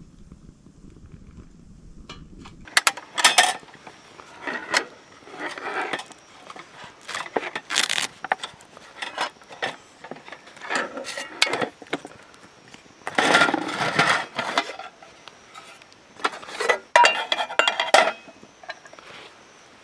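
Camp cookware and utensils being handled, giving an irregular run of metal clinks, knocks and clatters. A low rumble stops about two and a half seconds in.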